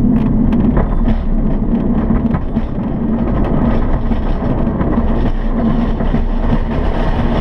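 Steady loud noise inside a glider cockpit during an aerotow takeoff: rushing air and rumble, with the tow plane's engine droning steadily ahead.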